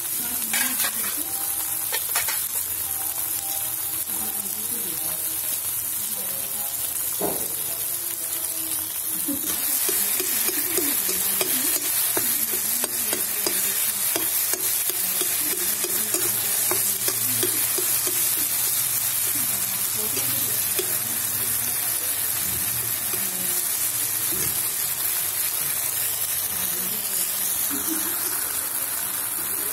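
Chopped onions and tomatoes sizzling in a steel kadhai while a steel ladle stirs and scrapes them around the pan. About ten seconds in the stirring becomes brisker and louder.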